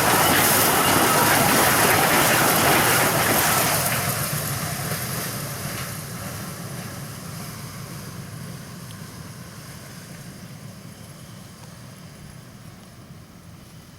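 Sugar cane train hauling empty cane bins along the narrow-gauge tramway, the wheels and bins running loud on the track and then fading away steadily from about four seconds in as the train moves off.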